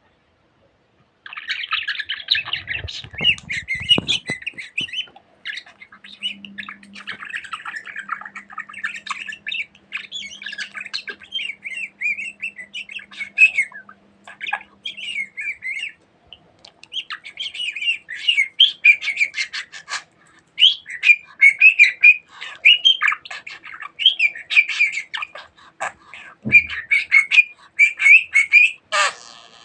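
Pet budgerigar chattering and warbling in fast, near-continuous chirps with short pauses. Low thumps of handling noise come about two to four seconds in, and a sharp click comes just before the end.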